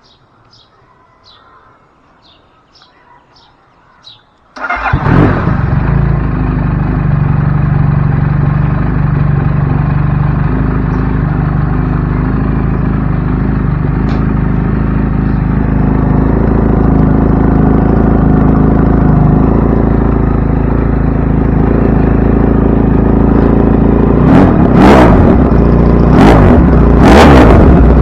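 Motorcycle engine cold-started: a few bird chirps in the quiet, then the engine catches suddenly about four and a half seconds in and idles steadily. Near the end it gives several loud bursts as it is revved.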